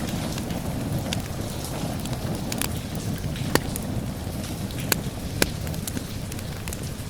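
Wood fire crackling, with scattered sharp pops, over a steady rain and low rumble. The loudest pops come around the middle.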